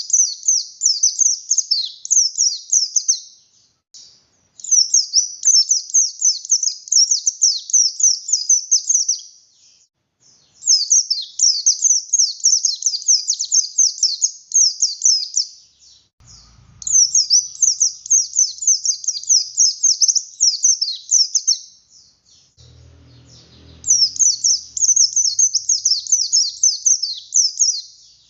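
A white-eye (pleci buxtoni) singing hard in a rapid, high, chattering warble. The song comes in five bursts of about four seconds each, with short pauses between them.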